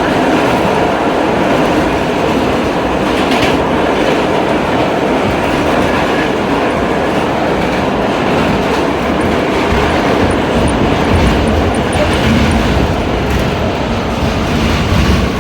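R32 subway car running at speed on an express run, heard from inside the car: a steady loud rumble of steel wheels on rail, with a couple of brief clicks.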